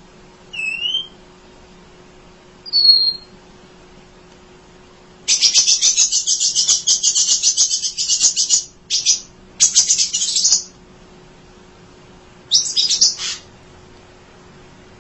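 Emprit (munia) song: a couple of short whistled notes, then a loud, fast chattering trill lasting about three seconds, followed by shorter chattering bursts.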